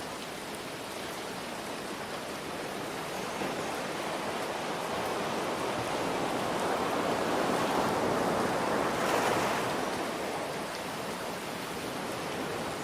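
Ocean surf under a steady hiss of rain; one wave builds over several seconds, peaks about two-thirds of the way in, and falls away.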